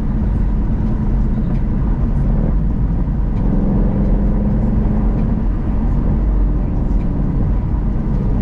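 Mercedes-AMG C63's 6.2-litre V8 engine and road noise while driving, with a stronger engine note from about three and a half to seven and a half seconds in.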